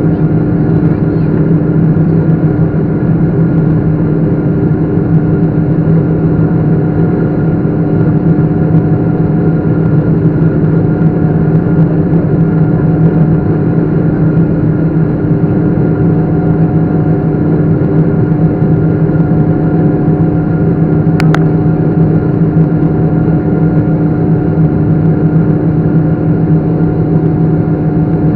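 Boeing 777 jet engines and airflow in a steady, unchanging drone, with a strong low hum and several steady tones over a noisy rush. A single short click sounds about three-quarters of the way through.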